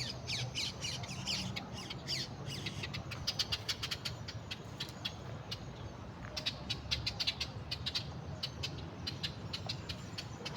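Birds calling: many short, sharp chip-like calls in rapid runs, with a few falling notes near the start.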